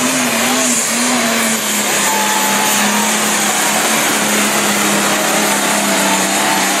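Turbocharged John Deere pulling tractor's engine running flat out under load during a pull: a loud, steady drone whose pitch wavers for the first second or so, then holds level.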